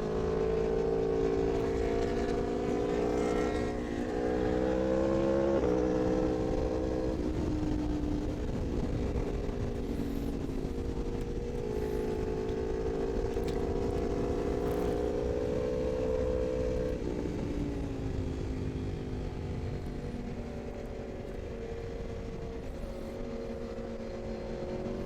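Sport motorcycle engine running hard at speed, its note stepping through gear changes in the first seconds, then climbing slowly and dropping away again, over a steady low rush of wind noise.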